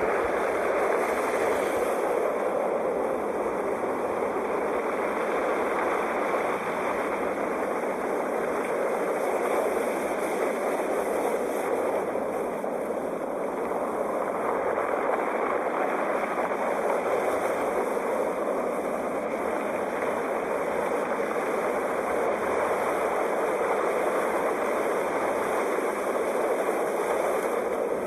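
Sea waves washing onto the shore in a continuous rush of surf, steady with only gentle rises and falls in level.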